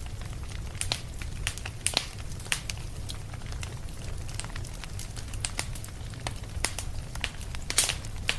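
Wood fire crackling: irregular sharp pops and snaps over a steady low rumble, with the loudest pop near the end.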